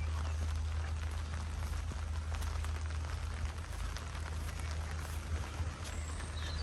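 Steady rain falling on a street, an even hiss with many small drop ticks, over a steady low rumble.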